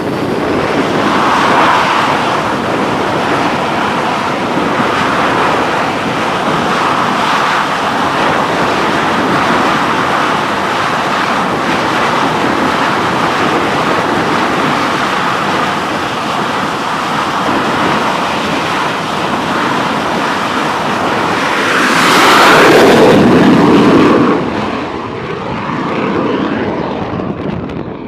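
T-45 Goshawk's turbofan jet engine running on an aircraft carrier flight deck: a loud, steady jet rush. It swells to its loudest about 22 seconds in for a couple of seconds, then eases off.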